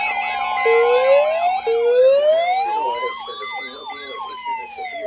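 Several sirens sounding at once: a slow wail rising and falling, over quicker yelping sweeps. Under them run a steady low hum and a short beep repeating.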